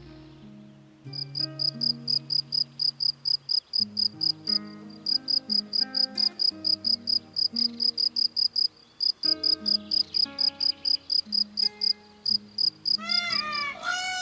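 Cricket chirping in rapid, even pulses, about five a second, in runs broken by short pauses, over soft background music with held notes. Near the end, honking calls begin.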